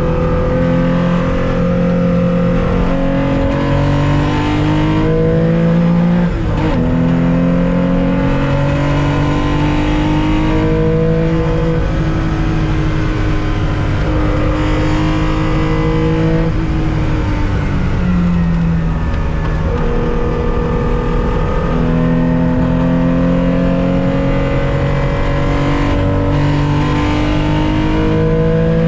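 1965 Porsche 911's air-cooled 2.0-litre flat-six running hard, heard from on board. The engine note climbs in pitch through each gear and drops at the gear changes, about six seconds in and again around eighteen seconds in.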